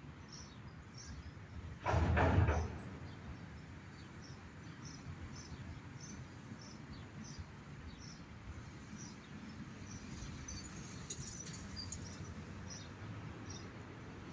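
A bird chirping: a steady series of short high chirps, about three every two seconds, over a low steady outdoor background. About two seconds in there is one brief loud burst of noise.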